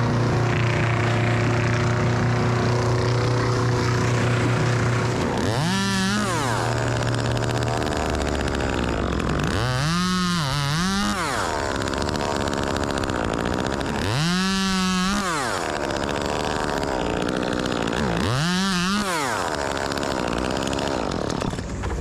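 Two-stroke chainsaw revved in four short blips, the second one a double, its pitch climbing and dropping back each time, over a steady engine drone that is plain in the first few seconds. The saw is running out of tune and needs its carburettor adjusted.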